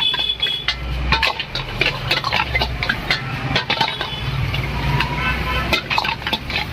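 Metal spatula clanking and scraping against a wok in quick, irregular strikes, some leaving a brief metallic ring, over a low steady rumble.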